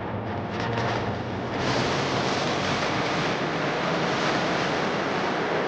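Steady rushing noise like wind buffeting the microphone, growing louder about a second and a half in, with a faint low hum beneath it.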